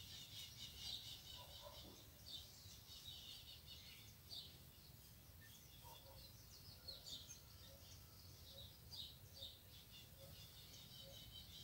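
Near silence, with faint high bird chirps repeating here and there in the background.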